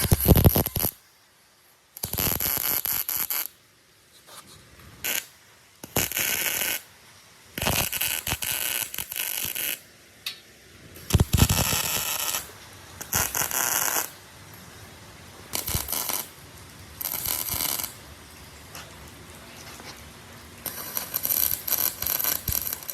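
Repeated bursts of harsh scraping noise, each lasting about one to two seconds, with short quiet gaps between them.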